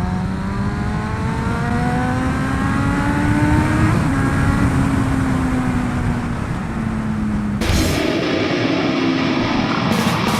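Motorcycle engine under way, its pitch climbing steadily as the bike accelerates, then levelling off and easing slightly about four seconds in. About three-quarters of the way through it cuts off abruptly to loud heavy rock music.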